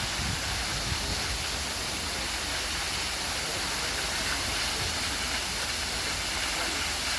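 Jeongbang Falls, a waterfall, pouring steadily: a constant, even rush of falling water.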